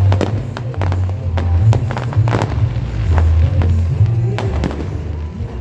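Fireworks going off in a rapid run of sharp bangs and crackles, over music with a heavy bass line.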